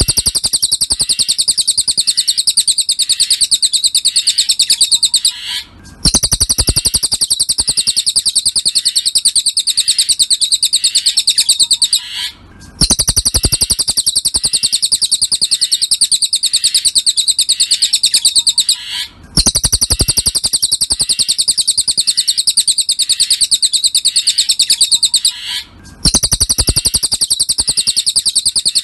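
Cililin (velvet-fronted nuthatch) song: a fast, even trill of high chipping notes in runs of about six seconds, broken by short pauses about four times, as in a looped song-tutor recording.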